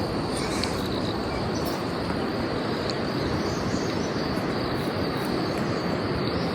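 Insects chirring steadily as a continuous high whine, over a steady rushing background noise.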